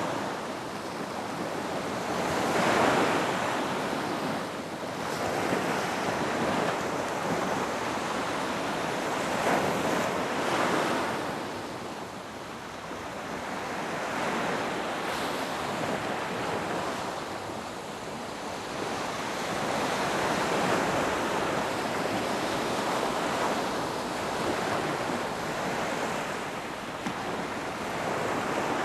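Ocean waves breaking and washing on a beach, a continuous surf rising and falling in swells every few seconds.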